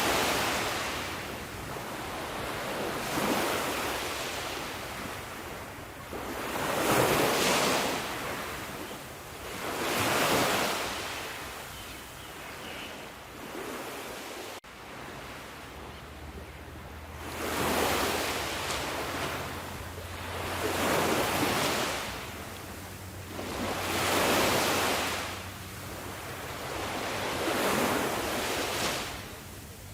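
Sea waves breaking and washing onto the shore, the surf swelling and falling back about every three to four seconds. About halfway through there is a brief sudden cut in the sound.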